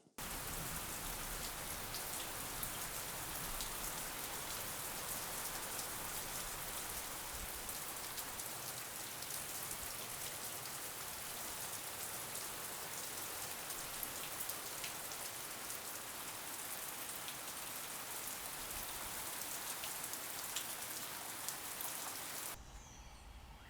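Steady rain falling: an even hiss sprinkled with small, sharp drop ticks. It cuts off abruptly near the end, leaving a quieter background.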